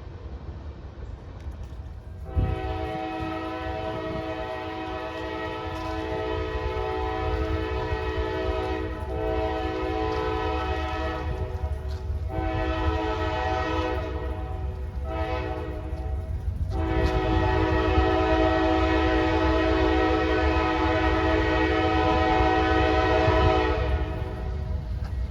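Locomotive air horn sounding a chord of several notes in the grade-crossing pattern: two long blasts, a short one, then a long final blast, over the low rumble of the passing train.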